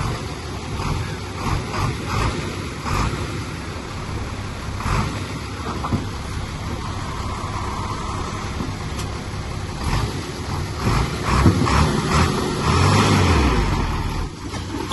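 Komatsu bulldozer's diesel engine running steadily under load, with scattered clanks. In the last few seconds it gets louder and its pitch rises and falls as it works harder.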